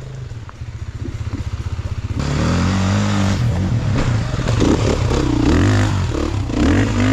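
Enduro dirt bike engine chugging at low revs for about two seconds, then opened up, revving up and down with the throttle for the rest of the time.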